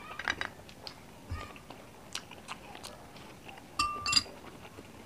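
Chewing a mouthful of balot (boiled fertilised duck egg), with scattered small mouth clicks. Near the end a metal spoon clinks twice against a ceramic soup bowl, the first strike briefly ringing.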